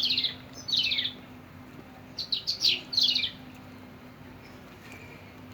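Birds calling: short, loud chirps that each fall in pitch, two single ones about a second apart, then a quick run of four or five about two to three seconds in.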